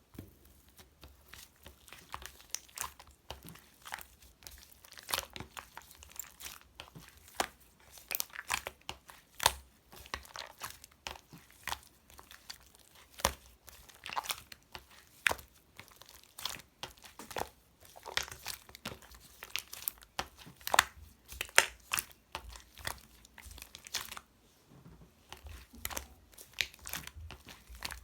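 Mint-chocolate slime being squeezed, poked and stretched by hand, giving a dense, irregular run of sharp clicks and pops.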